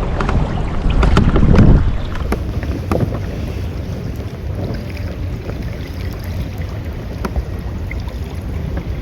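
Wind buffeting the microphone on a sailing kayak, with water splashing and ticking against the hull. The wind rumble is strongest over the first two seconds, then settles to a steady rush.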